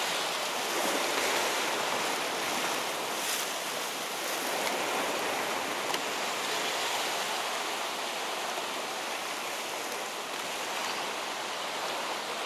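Steady wash of sea surf with wind, an even hiss that holds level throughout.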